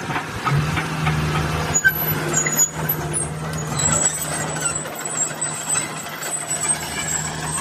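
Caterpillar 320GC tracked excavator's diesel engine running steadily, a low even hum that comes in about half a second in.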